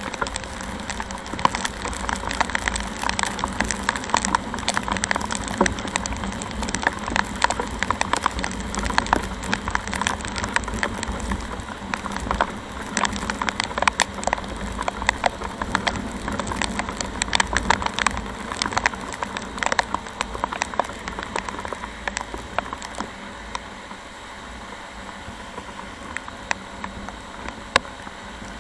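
Heavy raindrops tapping and pattering irregularly close to the microphone over a steady rush of wind and road noise on a motorcycle riding in the rain. The tapping thins out and the sound grows quieter about three-quarters of the way through.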